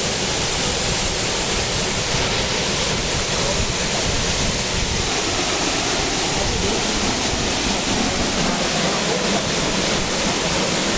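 Waterfall rushing: a steady, unbroken roar of falling and splashing water.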